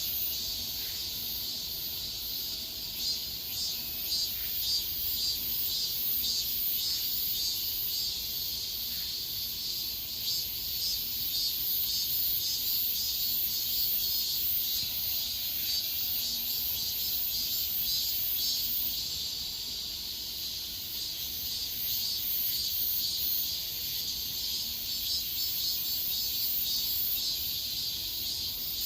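Insects chirring in a high, pulsing chorus that keeps going without a break.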